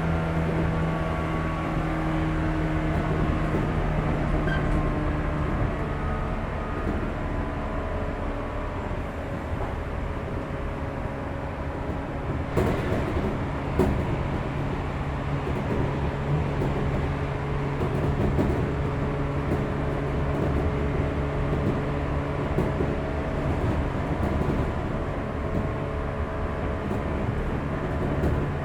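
Running sound of a JR 415-series electric multiple unit heard inside a motor car under the pantograph: steady hum from the traction motors and gears over rumbling rail noise as it runs at speed. Two sharp clicks come about halfway through.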